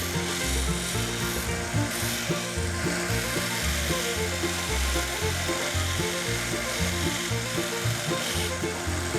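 A 1x30 belt sander running a conditioning belt against the steel wrench parts, a steady abrasive hiss, with lively reel music playing under it.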